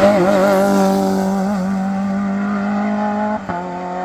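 Modern rally car engine held at high revs, a steady high-pitched note that wavers in the first second or so and drops out briefly near the end before carrying on.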